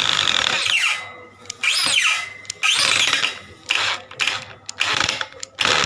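Electric-drill-driven homemade foam shredder run in about half a dozen short bursts. Each burst whirs up loudly and then winds down with a falling whine.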